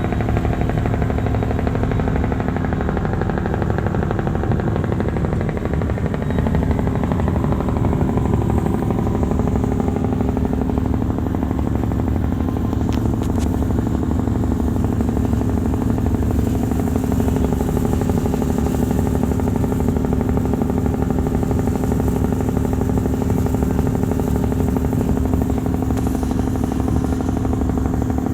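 Large diesel engine running steadily at constant speed: a low, unbroken drone with a steady hum.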